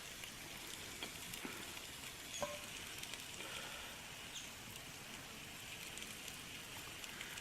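Fat sizzling faintly and steadily in an open camp oven around a roasting leg of lamb and vegetables, with a few light crackles and ticks.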